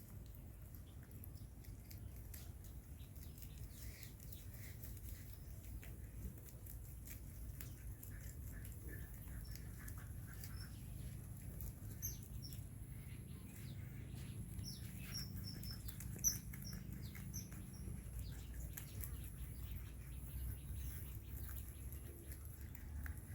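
Rabbits nibbling and chewing grass, a run of small crisp clicks over a low hum. Short high bird chirps come in the background in the middle.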